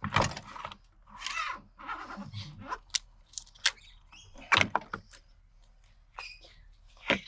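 Metal parts of a BTR four-speed automatic transmission being worked on by hand during teardown: several knocks, scraping and short sharp clicks.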